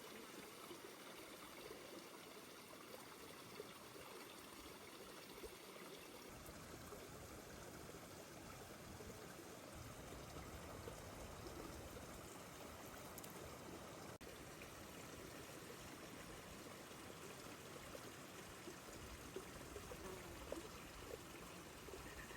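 Faint, steady rush of flowing water, like a small stream running, with a few faint taps near the end.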